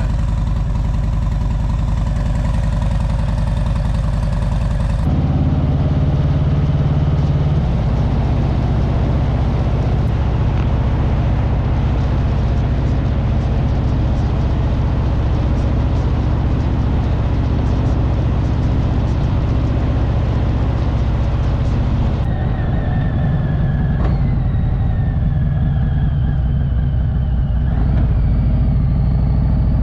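Motorcycle engine running at a steady speed, its note changing abruptly about five seconds in and shifting again around twenty-two seconds.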